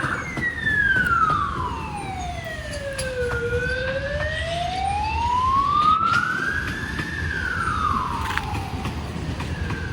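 Emergency vehicle siren sounding a slow wail: the pitch falls for about three seconds, rises for about three and a half, then falls again near the end.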